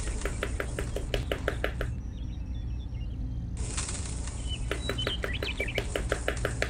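Two runs of rapid, evenly spaced tapping clicks, each lasting about two seconds with a short gap between, over a steady low hum and faint bird chirps.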